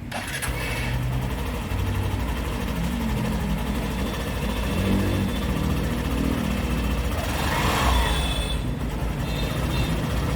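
Hero Glamour Xtec 125's single-cylinder engine running, its exhaust note steady in level.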